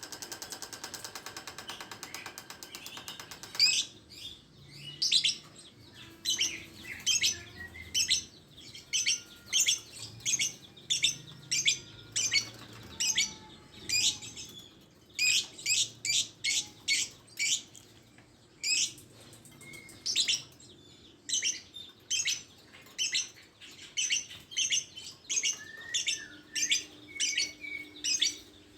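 A rapid buzzing rattle for about the first four seconds, then a lovebird's sharp, high-pitched chirps repeated in quick runs of several a second.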